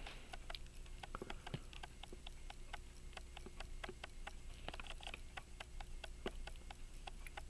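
Pocket watch ticking steadily at about five ticks a second. The ticks come from the 18-size Illinois key-wind movement, which is running again after cleaning. There is a brief faint rustle of handling about five seconds in.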